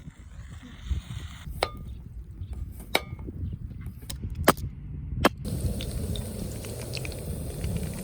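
Four sharp clicks, a second or so apart, over a steady low rumble.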